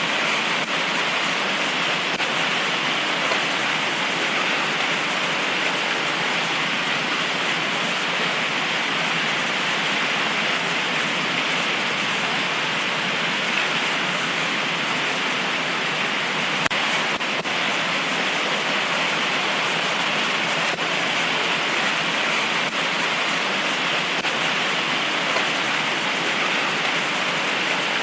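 Heavy tropical rain pouring down steadily, a dense, even hiss that holds at the same level throughout.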